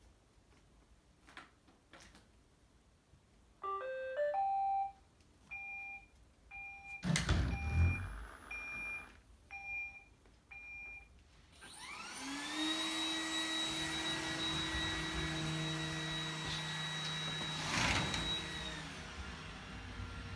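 Robot vacuum cleaner starting up: a short rising chime about four seconds in, a string of short beeps with a thump among them, then its suction motor spinning up with a whine and running steadily before winding down near the end.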